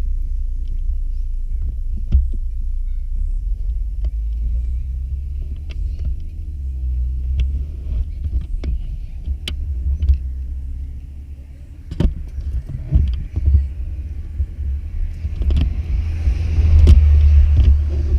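Motorcycle engine and exhaust rumbling steadily while riding, with scattered sharp knocks. It eases off briefly a little past halfway, then grows louder near the end as wind hiss rises.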